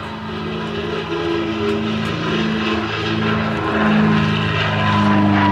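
Propeller drone of the DH.88 Comet's twin de Havilland Gipsy Six R piston engines in flight, growing louder, with a high engine tone starting to fall in pitch in the second half as the aircraft passes.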